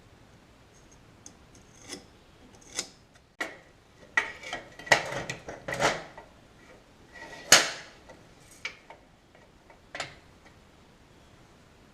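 Metal parts and hand tools being handled on a workbench: irregular clinks and knocks, some with a short metallic ring, the loudest about five and seven and a half seconds in.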